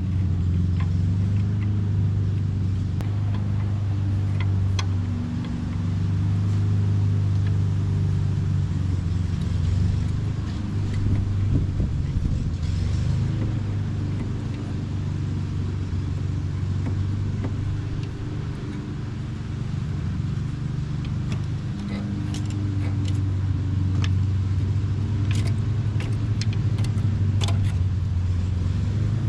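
A steady low mechanical hum, with scattered light metallic clicks and clinks of tools working at the brake caliper.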